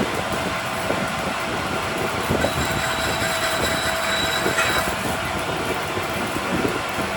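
Workshop machinery running steadily, with a thin high whine for a couple of seconds near the middle.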